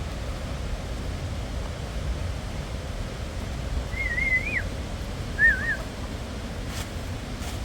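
Two short warbling bird calls, the second shorter, over a steady low rushing noise.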